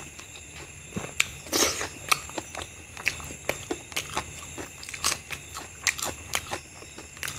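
Close-miked eating sounds of mutton curry and rice eaten by hand: wet chewing, lip smacks and sharp mouth clicks several times a second, with one longer, louder bite about a second and a half in.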